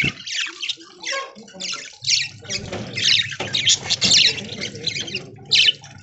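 A flock of budgerigars chattering, with many short, sharp squawks and chirps overlapping in quick succession.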